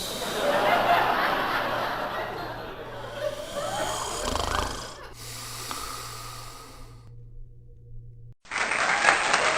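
A dog snoring heavily in its sleep. About a second before the end the sound cuts abruptly to applause.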